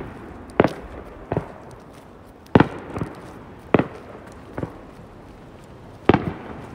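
Aerial firework shells bursting: about eight sharp bangs at uneven intervals, the louder ones trailing a short echo.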